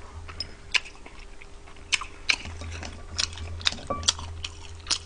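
A person biting and chewing fried chicken close to the microphone: irregular sharp crunches and clicks, over a faint steady low hum.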